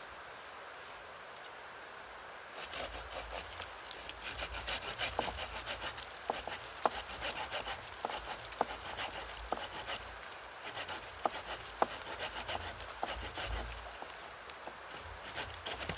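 Hand saw cutting wood in quick back-and-forth rasping strokes, starting about three seconds in, with a few sharper snaps mixed in.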